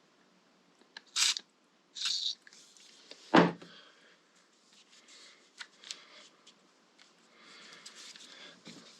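Tools being handled on a workbench: two brief rustling scrapes, then a single solid knock a few seconds in, the loudest sound, followed by light clicks and scrapes.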